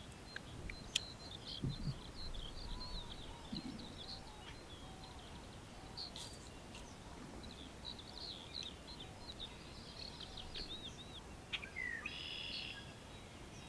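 Small birds chirping and singing in quick, varied phrases, with a dense trill near the end. A couple of soft low thuds and a few sharp clicks in the first few seconds.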